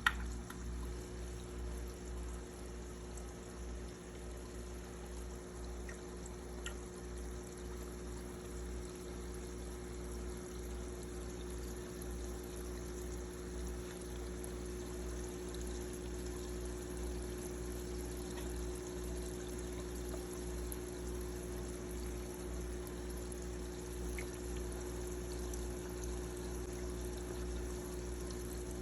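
Aquarium filter water pouring steadily into the tank over a steady low pump hum.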